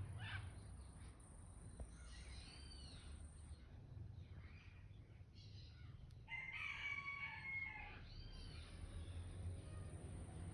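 Birds calling outdoors: short arching calls around two to three seconds in and again near eight seconds, and one louder call of about a second and a half with several layered pitches starting about six seconds in.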